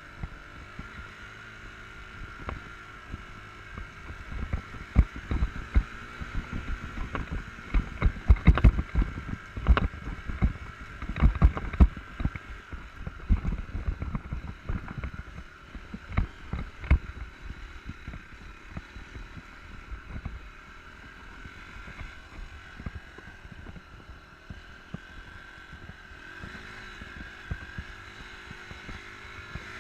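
Enduro motorcycle engine running, its pitch shifting as the throttle changes, with many sharp knocks and thumps through the middle stretch.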